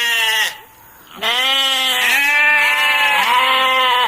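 Bleating of a sheep or goat. One call trails off about half a second in; after a short pause comes a long, wavering bleat of nearly three seconds that shifts pitch partway through.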